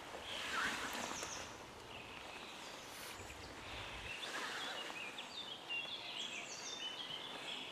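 Songbirds singing: repeated short high chirps and a warbling song, over a faint steady outdoor hiss.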